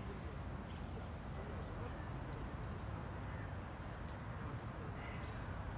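Outdoor park ambience: a steady low rumble with a quick run of short, high, falling bird chirps about two and a half seconds in, and another faint chirp a couple of seconds later.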